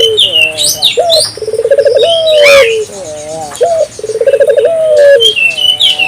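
Barbary dove (burung puter) cooing vigorously in a repeated phrase: a short rising note, a fast rolling run of pulses, then a long note sliding down, about every three seconds. Smaller birds chirp high above it.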